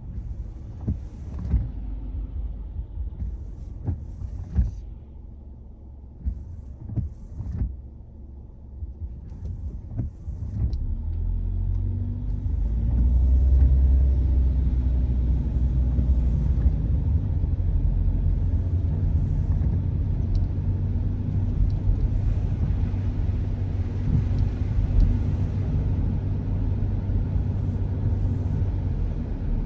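Car driving: a quieter low rumble with scattered short knocks at first, then about ten seconds in the car gathers speed with a rising engine tone. After that comes a steady, louder low road-and-tyre rumble.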